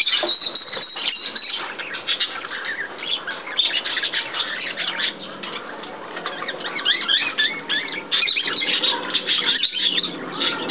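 A flock of birds calling over one another, a dense chatter of short, rapid chirps and squawks.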